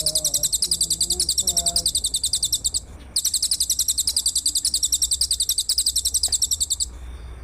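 A shrill, very rapid pulsed trill from a songbird-training (masteran) recording of bird and insect calls. It pauses briefly a little under three seconds in, resumes, and cuts off near the end.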